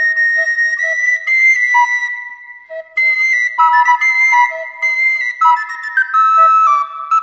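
Background music: a flute playing a melody of held notes, with a short lull a little past two seconds in.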